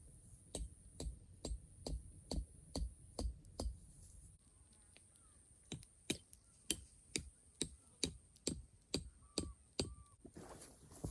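Repeated sharp knocking strikes, about two a second, in two runs with a short pause between, each with a dull thud beneath the crack, as of chopping or striking wood. Two short bird chirps near the end.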